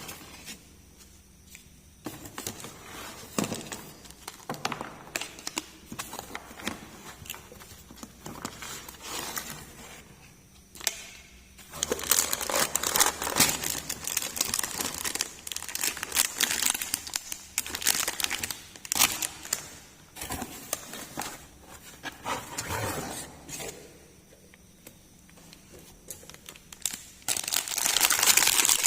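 Toy packaging being crinkled and torn open by hand during an unboxing, in irregular crackles that grow louder about twelve seconds in and again near the end.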